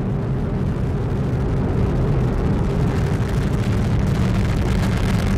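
Atlas V 401 rocket's RD-180 kerosene first-stage engine in ascent: a steady low rumble of rocket exhaust with crackle running through it.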